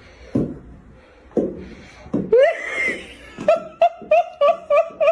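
High-pitched laughter: a rising squeal, then a rapid run of short, evenly spaced 'ha' bursts, about three a second, after a couple of soft thumps.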